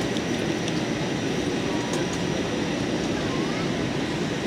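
Steady noise of a jet airliner's engines and rushing air, heard from inside the passenger cabin on approach to landing, with a few faint ticks.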